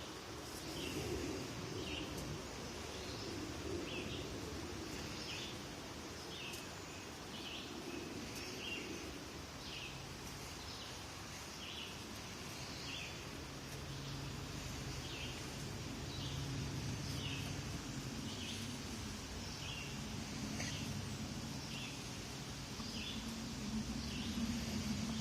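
A bird repeating a short, high call roughly once a second, over a steady low background rumble.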